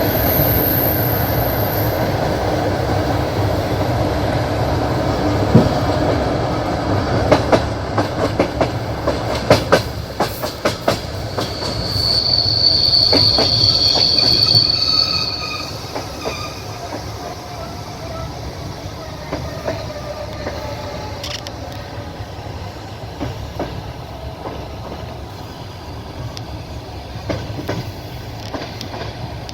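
Passenger train wheels running on the rails with a steady rumble, then a quick run of clicks as they cross rail joints. A high squeal from the wheels follows for a few seconds, after which the running settles quieter.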